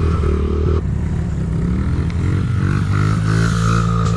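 Small gas pit bike engine running. Its revs drop about a second in, then climb slowly again.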